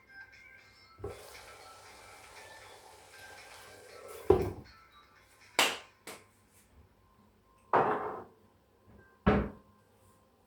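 A hiss for about three seconds, then four sharp knocks spread over the next five seconds, over faint background music.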